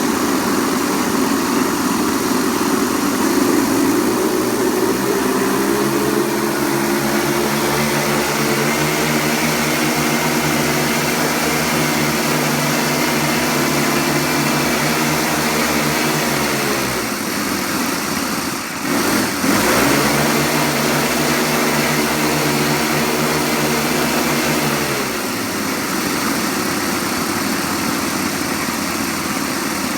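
Saito 30-class four-stroke glow engines of a six-engine model aircraft running together on a ground engine test. The engine note is steady for long stretches, dips sharply and comes back up about two-thirds of the way through, and turns rougher near the end.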